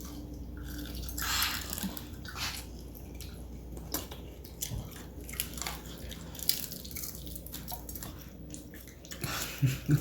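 People biting into and chewing crispy fried chicken: irregular crunches and wet chewing, with a louder crunch near the end.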